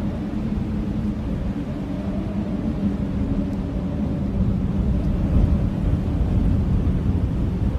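Blizzard wind blowing steadily: a low, dense rush with a faint howl held at a steady pitch.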